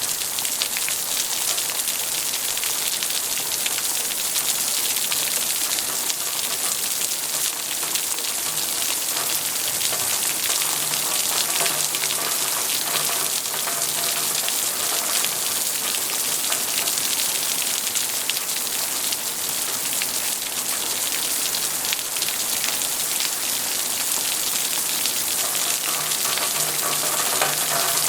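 Steady rain falling on a surface: an even hiss of many dense drops with no pause or break.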